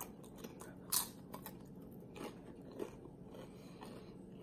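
Close-up chewing of crunchy nacho tortilla chips: one sharp crunch about a second in, then softer, scattered crunching as the chip is chewed down.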